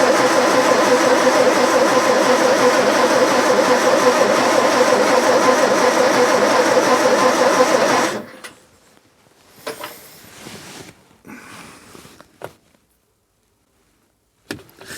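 Electric starter motor cranking the 1929 Riley 9's engine steadily for about eight seconds without it firing, then stopping abruptly. The magneto is switched off, so the engine cannot catch.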